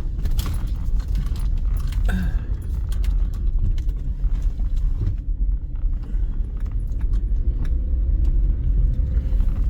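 Steady low road and engine rumble inside a moving car's cabin, with scattered light clicks and knocks, and the engine note rising slightly near the end as the car picks up speed.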